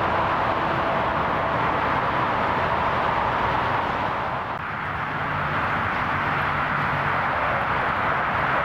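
Jet airliner engines running: a steady, even rush of noise, with a short dip about four and a half seconds in.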